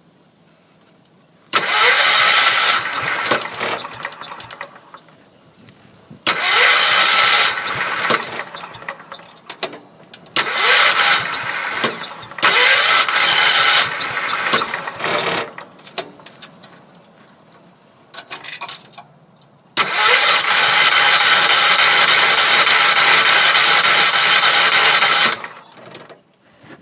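Wheel Horse C-105 garden tractor engine being cranked over by its starter in five tries, the last one the longest, without catching: a cold start at well below freezing that won't go.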